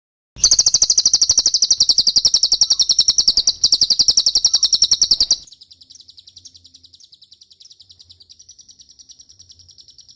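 Recorded cililin song: a very fast, high, chattering trill that starts about half a second in. It is loud for about five seconds, then carries on much quieter and stops just before the end.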